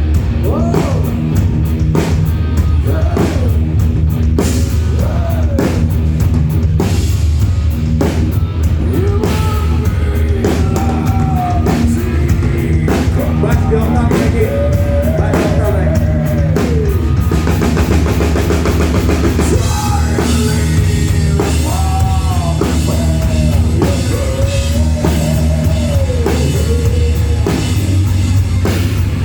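Rock band playing live and loud: drum kit with cymbal strikes and electric guitar under a bending melodic lead line.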